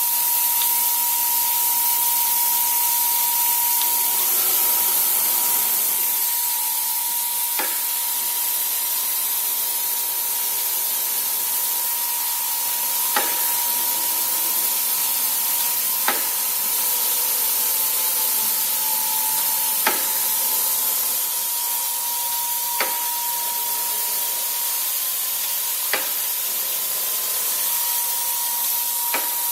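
CNC router running: a steady high hiss with a constant whine, and a sharp click every three seconds or so.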